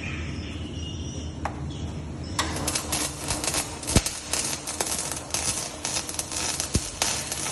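Electric arc welding: a low steady hum, then about two and a half seconds in the arc strikes and sputters with a dense, irregular crackle of sharp clicks.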